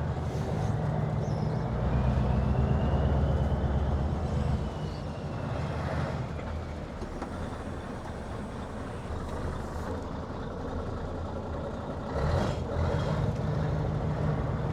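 Scania 143's 14-litre V8 diesel running at low speed as the truck is manoeuvred, picking up briefly for a few seconds early on and then settling back, with short hisses about 6 s and 12 s in.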